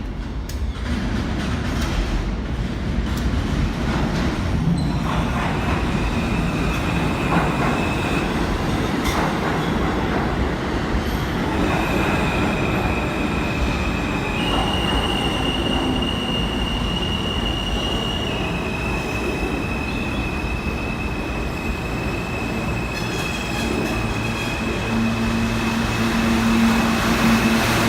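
New York City subway train running on the track with a steady rumble, heard from aboard. From about five seconds in, a high wheel squeal sets in, stepping between a few pitches and carrying on to the end.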